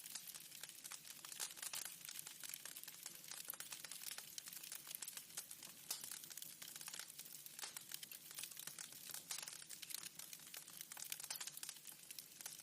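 Wood fire crackling in a fireplace: a dense, steady run of small sharp pops and snaps over a faint hiss.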